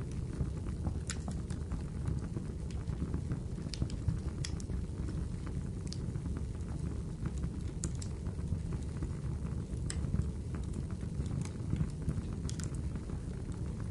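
Wood fire burning in a fireplace: a steady low rumble of flames with sharp crackles and pops every second or so.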